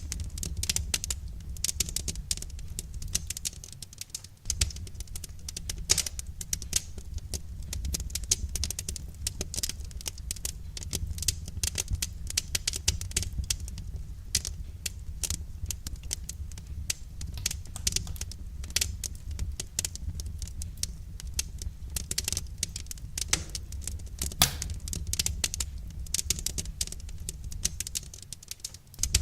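Wood fire crackling: a dense, irregular stream of sharp snaps and pops over a steady low rumble.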